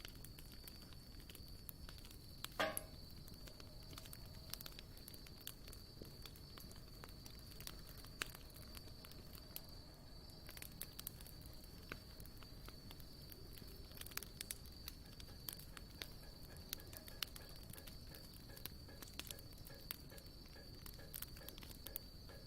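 Wood campfire burning with quiet, scattered crackles and sharp pops. One louder pop comes about two and a half seconds in. A steady, faint high-pitched tone runs underneath.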